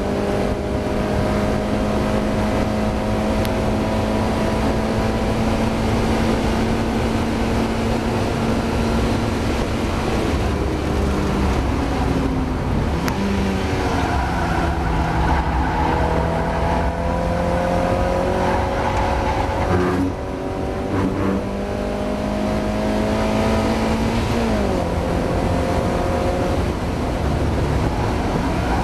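Mazda MX-5 race car's four-cylinder engine running hard at racing revs. The pitch climbs slowly along the straights and drops away a few times for braking and gear changes.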